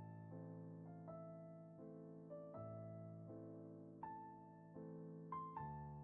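Quiet, slow piano music: single notes and soft chords struck about once a second, each left to ring and fade.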